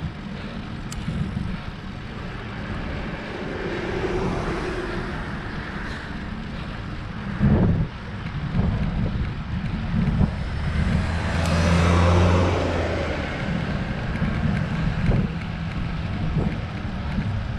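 Wind rumbling on a camera microphone while riding a road bike. A motor vehicle passes close by about two-thirds of the way through, its engine rising and fading. A single knock sounds shortly before it.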